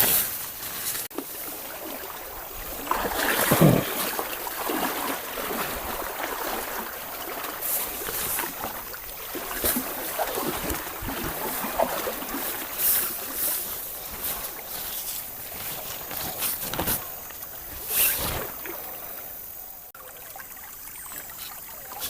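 Irregular splashes and knocks from work on a bamboo raft in river water, with the loudest bump about three and a half seconds in.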